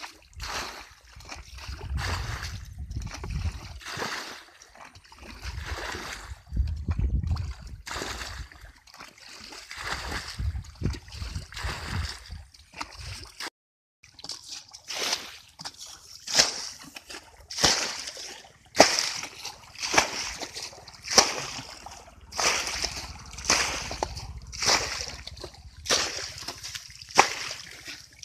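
Water splashing and sloshing over and over, with low thuds in the first half. After a brief drop-out about halfway, sharper splashes come roughly once a second.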